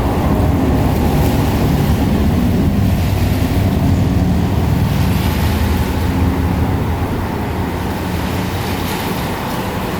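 A motor engine running steadily with a low, even-pitched rumble that eases off slightly in the second half.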